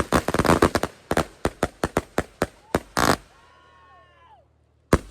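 Fireworks going off: a dense crackle for the first second, then a string of separate sharp bangs that ends with a heavier burst about three seconds in.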